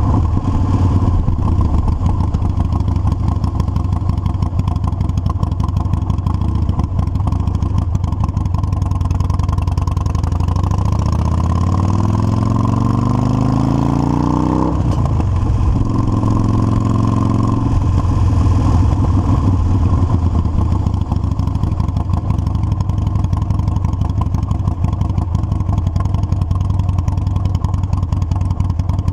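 Motorcycle engine running under way, its pitch rising steadily for several seconds as it accelerates, then dropping suddenly about halfway through at a gear change and running on steadily.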